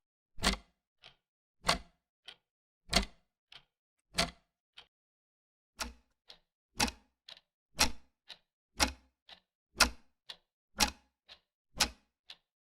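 Clock ticking steadily, a loud tick about once a second with a fainter tick between each.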